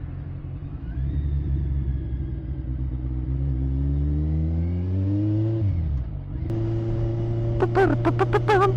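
Motorcycle engine pulling hard in one gear, its pitch rising steadily for about five seconds, then dropping sharply near six seconds in. About six and a half seconds in, electronic music with a beat comes in over it.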